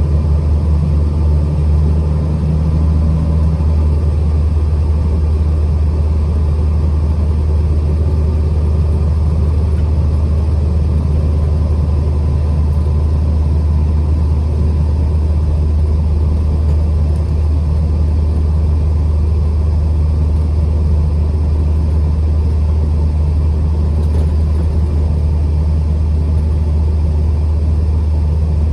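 Truck driving on the road: a steady low rumble of engine and road noise that holds an even level throughout.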